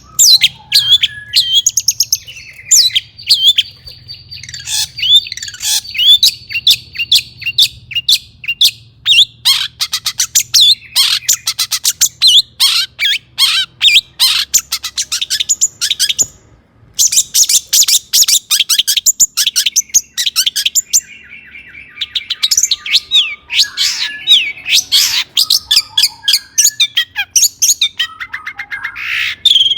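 Long-tailed shrike (cendet) singing a fast, varied song of rapid chattering notes, trills and whistled glides, packed with imitations of other birds' calls. There is a brief pause about halfway through.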